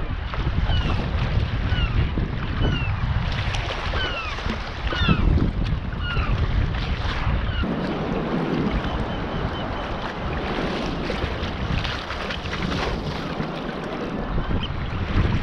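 Sea kayak on the water: a steady wash of water and wind rumbling on the microphone. A series of short falling chirps repeats over it during the first half, then fades out.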